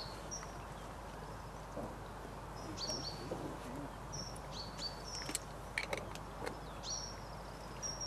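A small bird calling in short high chirps, often two close together, at uneven intervals over steady outdoor background noise.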